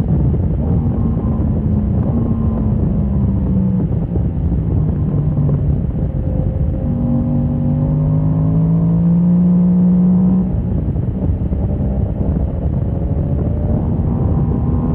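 Motorcycle engine on track, its note climbing in pitch under acceleration, dropping off about ten seconds in and climbing again near the end, with heavy wind rush over the microphone.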